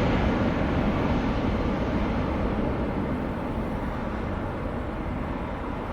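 Jet engine noise of an Airbus A320 airliner, a steady, even noise that fades gradually as the aircraft moves away.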